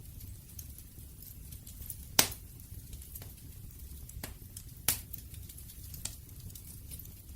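Wood fire burning with a steady low rumble and irregular crackles. One sharp pop comes about two seconds in, another near five seconds, and fainter snaps fall in between.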